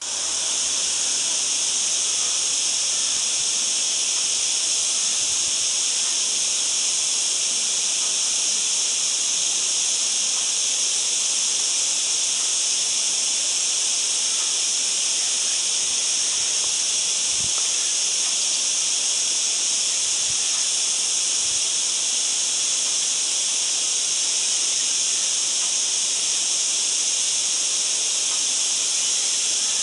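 Steady, high-pitched hiss of outdoor natural ambience that never lets up, with a few faint low thumps.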